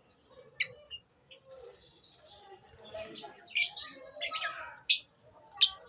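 Lovebirds in a colony giving short, sharp, high-pitched chirps, one early on and a cluster of louder ones in the second half.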